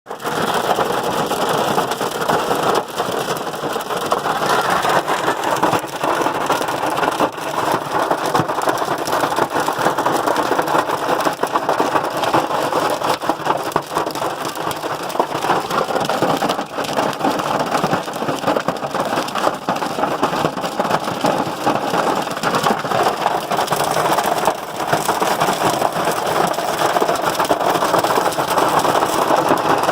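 Hailstorm: hailstones pelting a hard surface in a dense, steady clatter of many small impacts.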